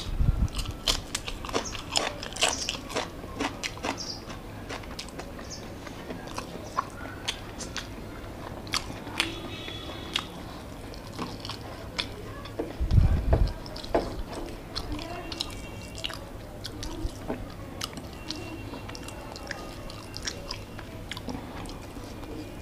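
Close-miked eating by hand: crunchy bites and wet chewing of rice and chicken, with a crisp green chili bitten near the start. Two dull thumps stand out, one at the start and one about halfway through.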